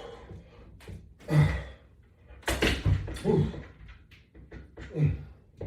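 A man's short effortful exhalations and grunts, a few in a row, as he works through resistance-band crunches.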